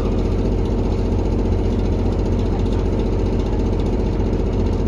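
Diesel engine of a JR Kyushu KiHa 183-1000 series railcar heard from inside the passenger car, running steadily with a rattling, clattering noise that the passenger finds abnormal and suspects is an engine fault or age-related wear.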